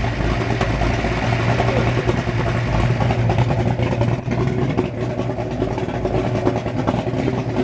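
Kiekhaefer 482 cubic-inch V8 marine engine running steadily at a constant speed while its ignition timing is being set, the timing just set where the owner wants it.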